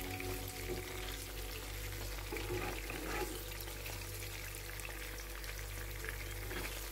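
Cheese donuts shallow-frying in oil in a nonstick frying pan over low heat, giving a steady sizzle with fine crackles. A spatula moves them about briefly, around three seconds in.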